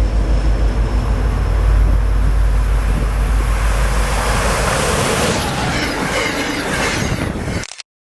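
Amtrak passenger train rushing through a station at speed: a heavy low rumble turns about halfway in into a loud rushing hiss with wheel and rail noise. The sound cuts off abruptly just before the end.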